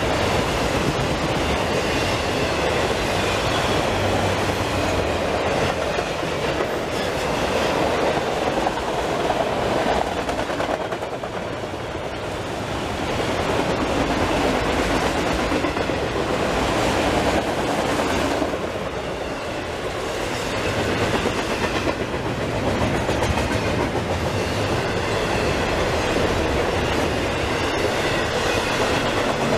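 Freight train rolling past at close range: steel wheels rumbling and clattering on the rails as autorack cars go by, then double-stack container well cars. The sound holds steady with two brief dips in loudness.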